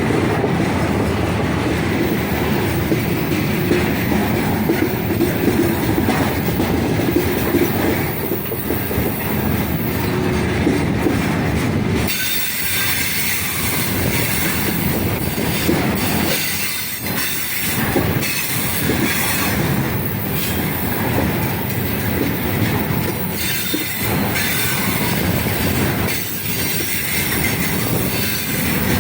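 Heavy freight train rolling past: steady rumble and clatter of wagon wheels on the rails, with wheels squealing. About twelve seconds in, the low rumble thins and the sound turns brighter and higher.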